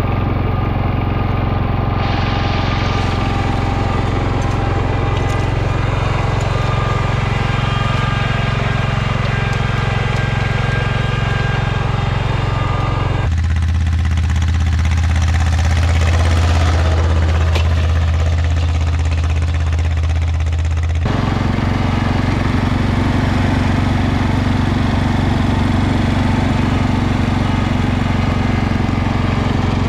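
Garden tractor engines running steadily under work. About 13 seconds in the sound switches abruptly to a different engine with a heavier low hum, and about 8 seconds later it switches back.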